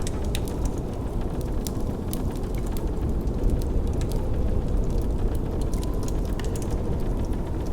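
Wood fire crackling, with frequent sharp irregular pops, over the steady low rush of blizzard wind.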